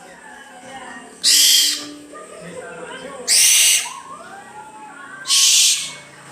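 An owl giving three harsh, hissing screeches, each about half a second long and about two seconds apart.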